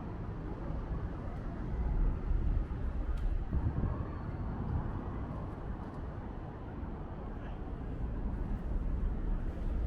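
Outdoor city street ambience: a steady low rumble with a fainter hiss above it, and no distinct single event.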